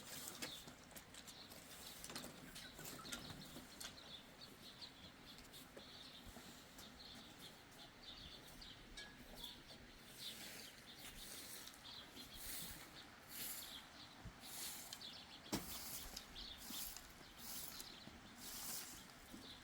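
Faint bird chirps over a quiet outdoor background, coming more often in the second half, with one sharp click about three-quarters of the way through.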